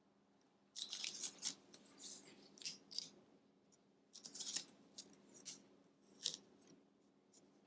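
Wooden jumbo craft sticks clicking and clattering as they are laid down and fitted together, in two spells of quick, light clicks.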